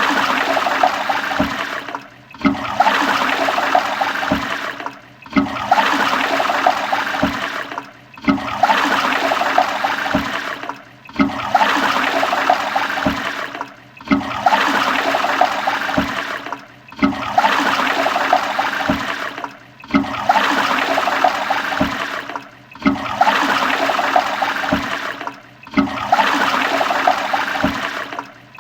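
Toilet flushing: a rush of water that starts abruptly, dies away after about three seconds and starts again, over and over, about ten flushes in a row.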